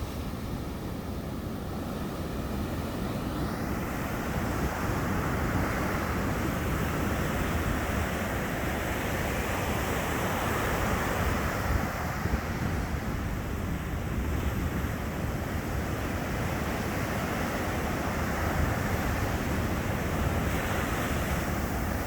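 Sea surf breaking and washing onto the beach as a continuous rush of noise. It swells about three to four seconds in as a wave breaks, then stays steady.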